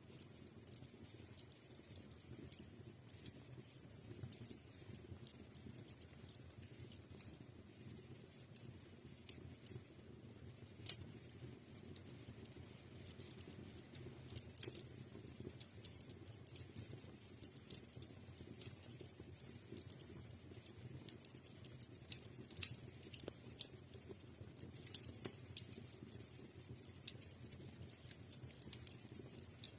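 Wood fire crackling in a fireplace: irregular small snaps and pops over a low steady rumble of the flames, with a few louder snaps about two-thirds of the way through.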